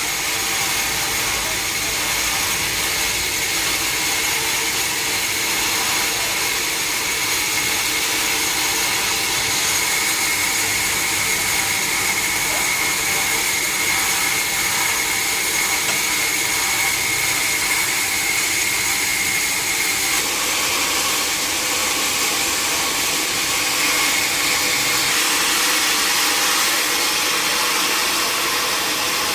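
Sawmill saw running steadily through a log, a loud continuous machine noise with a steady high whine that drops away about twenty seconds in as the hiss turns brighter.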